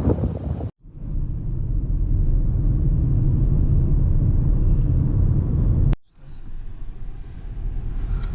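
Steady low rumble of road and engine noise inside a moving car, broken by two sudden cuts, about a second in and about six seconds in.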